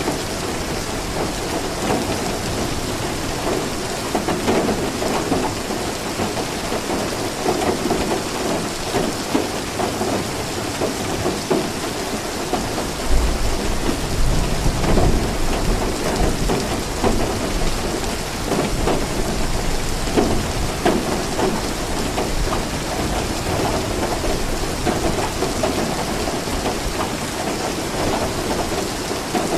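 Steady rain falling on a surface, a dense even hiss. About halfway through, a low roll of thunder comes in and rumbles on for several seconds before fading back under the rain.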